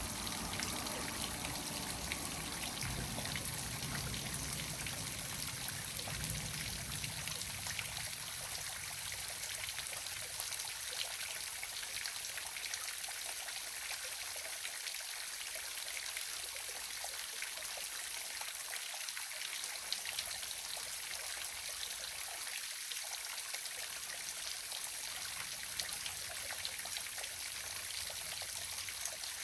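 Small waterfall splashing and trickling steadily, a continuous hiss of falling water, with a little low rumble in the first several seconds.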